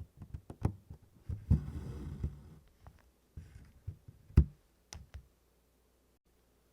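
Hand-stitching sounds: small taps and clicks of a needle working through stiff Congress cloth, with a rustling pull of embroidery floss through the canvas about one and a half seconds in. A sharper tap comes about four and a half seconds in.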